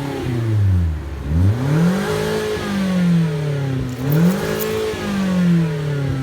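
2016 Scion iA's 1.5-litre four-cylinder revved through an exhaust with the rear muffler removed. It winds down from a rev, then is blipped up twice, about a second in and about four seconds in, each rev rising quickly and falling back slowly.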